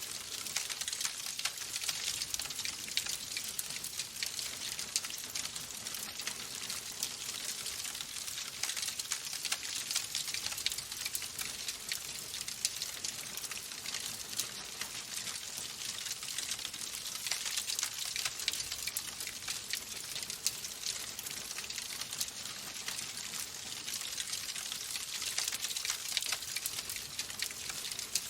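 Wood fire burning in a fireplace, crackling steadily with dense small pops over a soft hiss.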